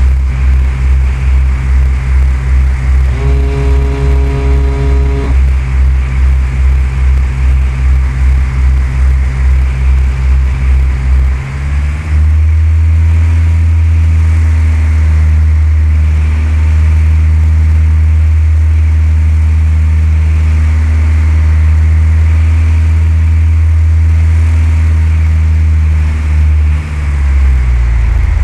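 Cessna 172's engine and propeller droning loudly, pulsing about three times a second, then shifting to a smoother, steadier note about twelve seconds in, and changing again near the end. A brief steady tone sounds for about two seconds a few seconds in.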